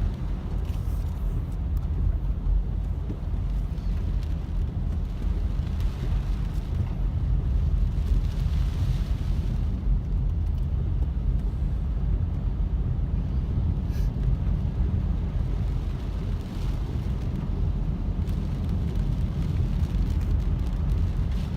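Car cabin noise while driving on a rain-soaked road: a steady low rumble of engine and tyres on wet pavement, with a faint hiss of water above it.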